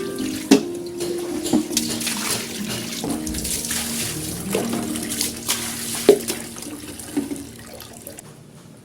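Water running from a tap into a sink, with several sharp knocks and clinks, fading out near the end.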